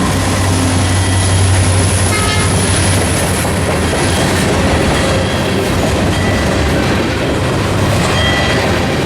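A train rolling past close by: a loud, steady rumble of cars on the rails, with a strong low drone in the first two seconds and a few faint, brief high squeals.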